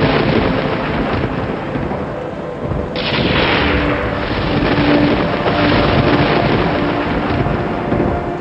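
Thunder rumbling over a steady wash of rain, with a sharp thunderclap about three seconds in whose crack sweeps downward in pitch before rolling on. Soft music with long held notes plays faintly underneath.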